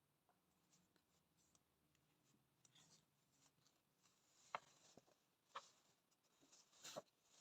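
Faint scratching and small scattered clicks of a package being handled and opened, with three sharper clicks in the second half.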